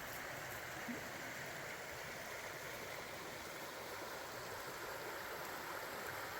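Steady rush of flowing creek water, with one faint tap about a second in.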